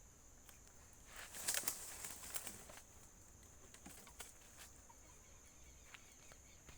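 Faint rustling and crackling of dry twigs and leaves, strongest for about a second and a half a little after the start, followed by a few scattered light clicks over a steady faint high hiss.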